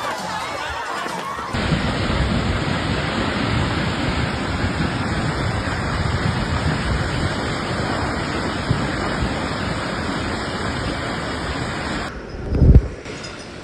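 Steady, loud rushing noise of a storm, most likely wind and heavy weather hitting the microphone. A single loud low thump near the end.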